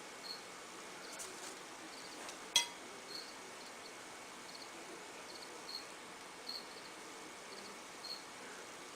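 Faint cricket chirping, short high chirps coming every second or so, with one sharp click about two and a half seconds in.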